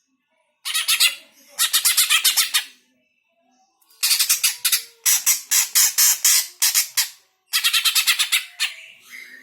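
Cucak hijau (green leafbird) giving harsh, rapid chattering calls in five bursts, each a quick run of rasping notes, with a pause of about a second and a half after the second burst.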